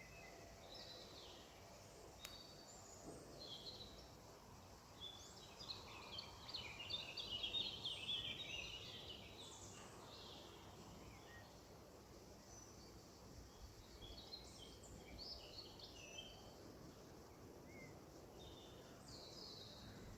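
Wild birds chirping and singing faintly, with scattered short calls and a busier stretch of song about six to ten seconds in.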